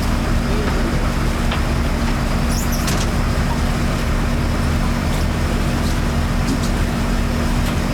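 A yacht's engine running steadily underway: a constant low drone with a steady hum, over an even rushing noise.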